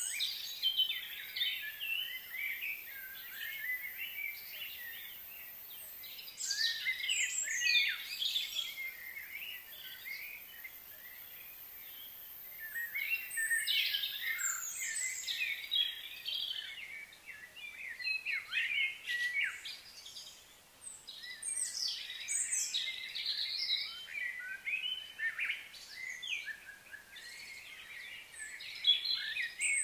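Birds chirping and twittering in bouts of many short calls, with quieter lulls between the bouts.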